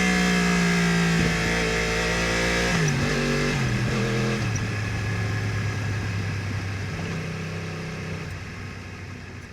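Yamaha R1's crossplane inline-four through an Akrapovič exhaust, running at a steady speed, then dropping in pitch in two steps about three seconds in as the bike slows and shifts down. It then runs lower and steady, fading out near the end.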